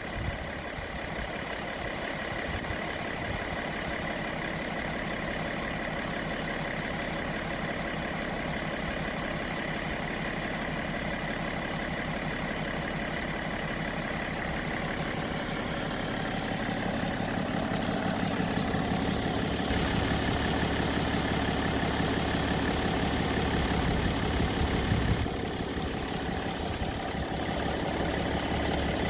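BMW E60 530d's M57N 3.0-litre straight-six turbodiesel idling, running evenly; the owner calls it a perfect-running engine. It gets somewhat louder a little past halfway, with a short dip near the end.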